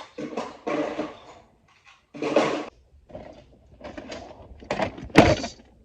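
Indistinct voices, not clear enough to make out as words, with a sharp knock about five seconds in.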